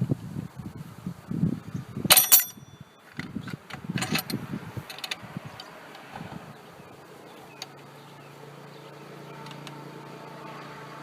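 Hand tools and metal parts being handled on a car engine: knocking and rattling, with a sharp metallic clank about two seconds in and another near four seconds. A steady low hum sets in after about seven seconds.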